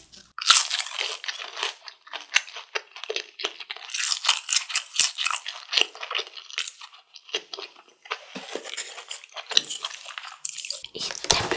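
Crunchy chewing of a fried BHC cheese ball: a dense run of crisp crackles as the crust is bitten and chewed, with brief pauses.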